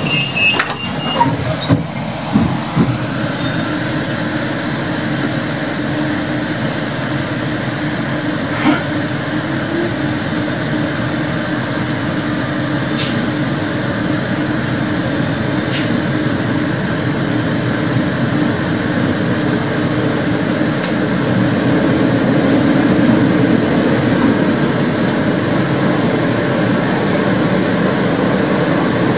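Inside a Madrid suburban electric commuter train pulling out of a station: door warning beeps and a few knocks in the first couple of seconds, then the steady rumble of the running train, with a few clicks, growing louder as it picks up speed.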